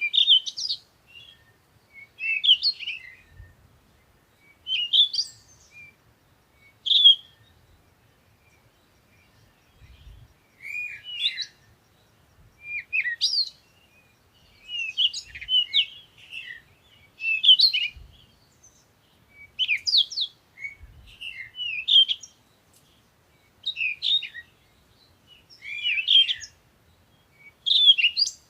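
Songbird singing short, warbled phrases, about one every one to two seconds with brief pauses between them.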